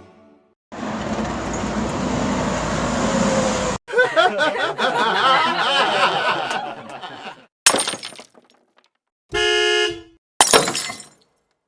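A string of short, separate sound effects. First comes a few seconds of noisy hiss, then a stretch of wavering sounds and a sharp hit. A single steady car-horn honk follows about nine and a half seconds in, and a brief final burst ends it.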